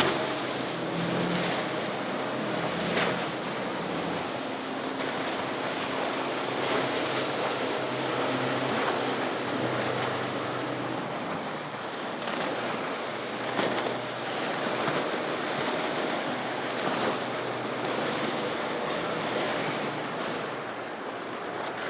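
Waves and boat wakes washing in an inlet, with wind on the microphone and the low hum of passing fishing boats' engines underneath.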